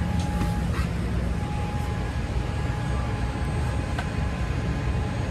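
Steady low rumble and hum of the cabin inside a Boeing 787-8 airliner, with a single faint click about four seconds in.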